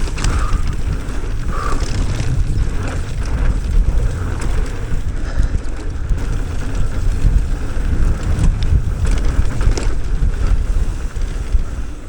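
Wind buffeting a camera microphone during an electric mountain bike ride, a steady low rumble with occasional knocks from the bike over rough ground.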